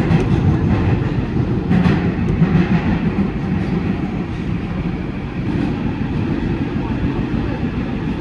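New York City Subway 7 train running through a tunnel, heard from on board: a steady, loud rumble of wheels on rails, with a brief sharper rattle about two seconds in.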